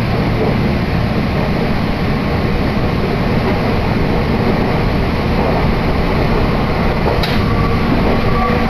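Meitetsu Hiromi Line commuter train running, heard from inside the carriage: a steady rumble of wheels on the rails and running gear, with a brief click about seven seconds in.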